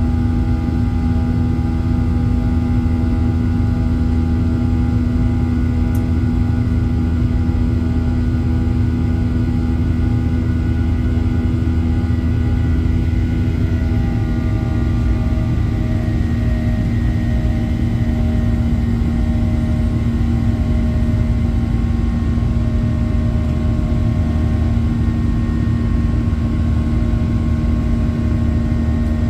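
Boeing 737-800 jet engines, CFM56 turbofans, heard from inside the cabin: a steady drone with deep rumble and a hum, and several engine tones that slide slightly lower about 13 seconds in.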